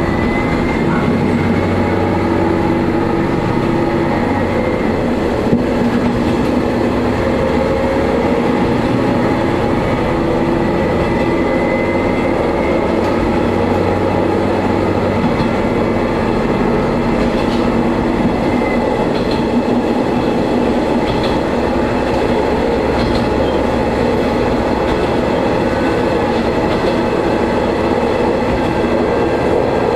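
Diesel railcar running along the line, heard from on board: a steady engine drone mixed with the rumble and clickety-clack of wheels on rail. Faint wheel squeal comes in now and then.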